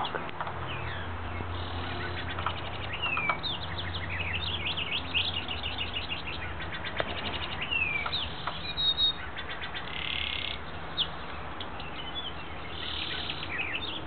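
Songbirds chirping and calling: many short, quick notes sweeping down in pitch, with several fast rattling runs of notes throughout.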